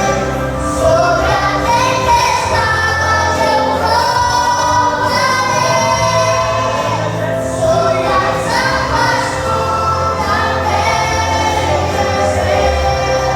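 A choir singing a Christian song with instrumental backing and a steady bass line.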